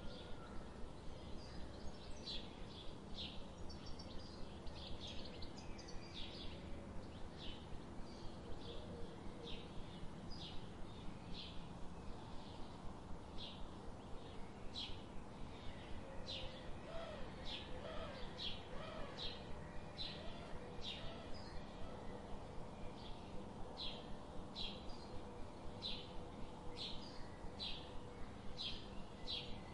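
Small birds chirping over and over: short high chirps about twice a second, with a few softer, lower warbles mixed in.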